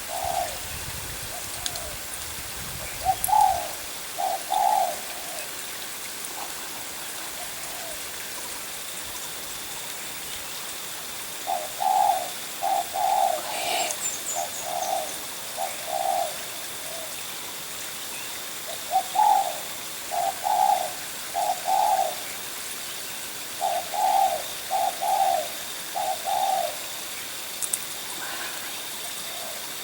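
Spotted doves cooing: short phrases of two to four low coos, repeated in several bouts with pauses between them.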